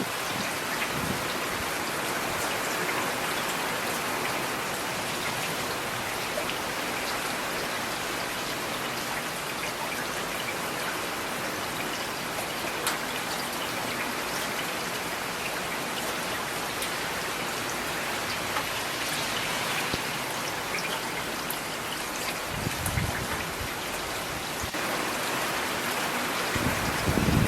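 Steady rain falling on hard surfaces, an even hiss with scattered sharp drip ticks. A brief low thud sounds about 23 seconds in.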